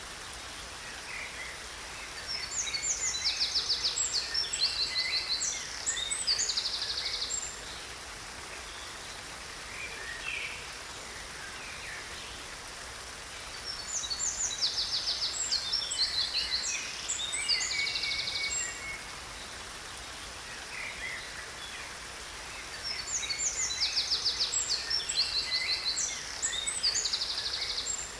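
Songbirds singing in three bouts of rapid, high chirps and trills, each bout about five seconds long and coming roughly every ten seconds, over a steady hiss of falling water.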